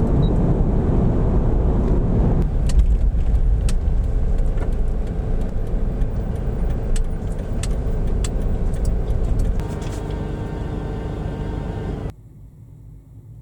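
Motor vehicle running, a steady low rumble with scattered sharp clicks, cutting off abruptly about twelve seconds in.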